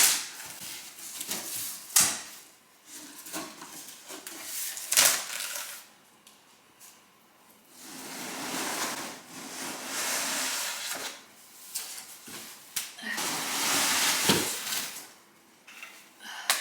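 Rustling and scraping of a boxed artificial flocked Christmas tree and its packaging being handled and pulled out, with a few sharp knocks along the way.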